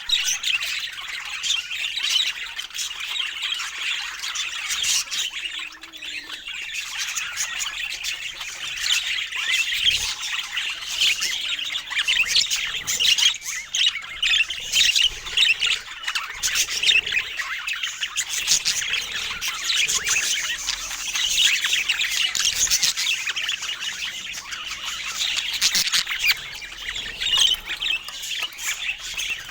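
Several budgerigars chattering continuously, a dense mix of short chirps and squawks with no break.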